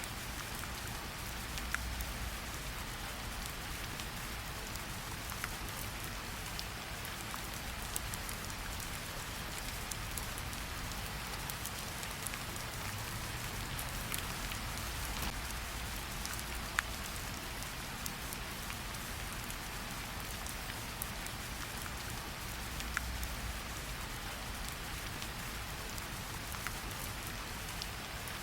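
Steady rain falling on a window and surfaces outside, an even hiss with scattered sharper drop strikes.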